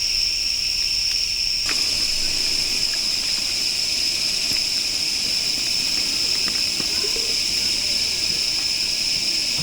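Steady chorus of insects, such as crickets, singing in an unbroken high-pitched drone that grows a little fuller about two seconds in.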